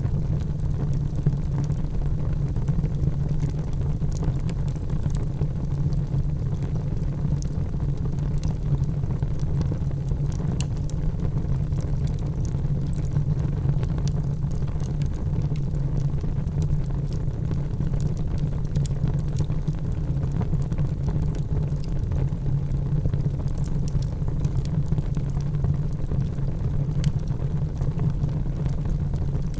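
Wood fire burning in a fireplace: a steady low rumble of flames with scattered light crackles and pops.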